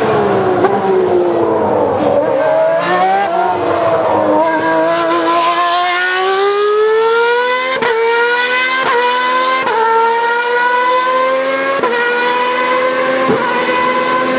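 Ferrari V12 Formula One engine at high revs. Its pitch sinks for a moment, then climbs steadily under hard acceleration. In the second half it rises and drops sharply about five times as it shifts up through the gears.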